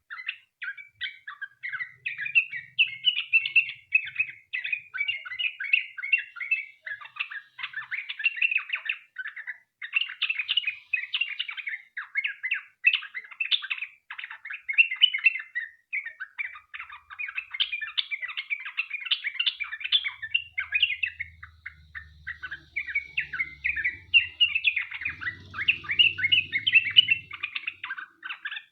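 Yellow-vented bulbul (trucukan) singing a long, rapid run of chattering, bubbling notes with no real pauses: the 'ropel panjang' song that bird keepers play to set other bulbuls singing.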